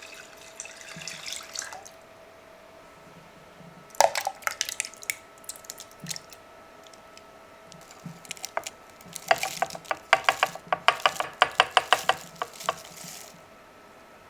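Water dripping and splashing in a sink, with a sharp clink about a third of the way in and a run of quick sharp drips or clinks, several a second, in the second half.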